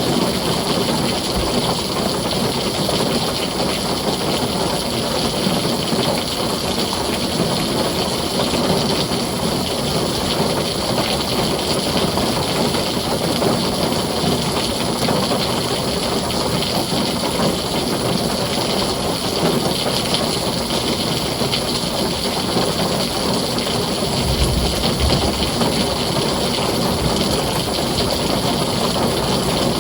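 Heavy rain drumming steadily on a tin roof. About 24 seconds in, a short low rumble of distant thunder rises under it.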